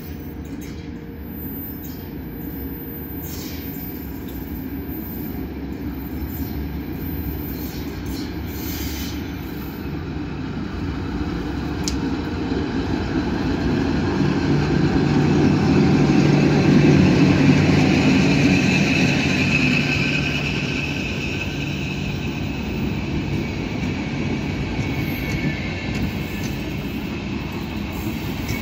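Electric locomotive hauling a passenger train as it approaches and passes, growing steadily louder to a peak about halfway through with a low hum. The coaches then roll by with steady wheel-and-rail noise and a high wheel squeal.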